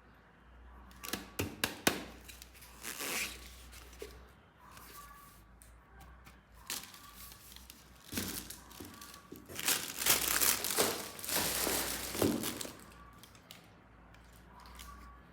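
Plastic packaging crinkling and tearing as toy parts are unwrapped, in irregular rustles with a few sharp clicks about a second in and the loudest crinkling about two-thirds of the way through.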